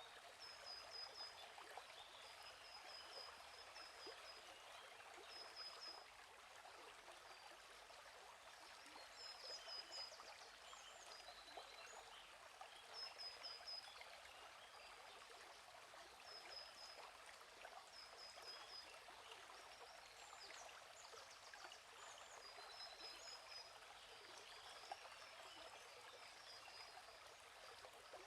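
Faint, steady flow of a gently running stream, with a songbird repeating short, high trilled phrases over it every few seconds.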